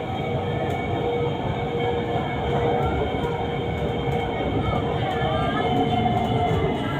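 Electric metro train of the Orange Line running, heard from inside the carriage: a steady rumble with a steady hum.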